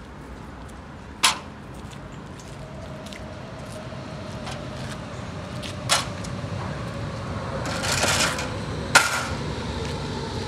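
Berlin S-Bahn train standing at a platform, its running hum slowly building, with three sharp knocks about a second, six seconds and nine seconds in, the last one loudest, and a short hiss of air a little before the last knock.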